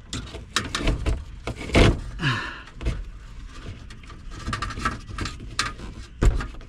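Electrical wire being pulled through a hole in an RV's frame: irregular scraping, rustling and knocks as the cable and fish tape drag and bump against the frame, with two loud knocks, one about two seconds in and one near the end.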